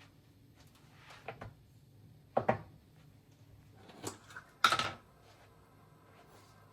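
A handful of short knocks and clatters of household objects being handled or set down, the loudest near the end.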